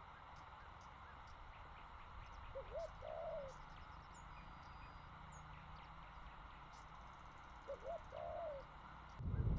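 A bird calling twice, about five seconds apart, each time a low short note followed by a longer arched note, over a steady hiss. A loud low rumble comes in near the end.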